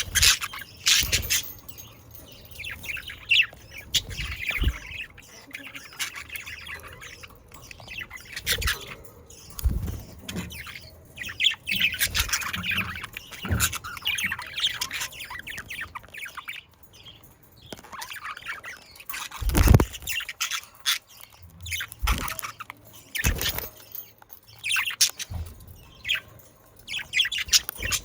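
A flock of budgerigars chirping, warbling and squawking without pause, with sharp knocks now and then, one loudest about two-thirds of the way in.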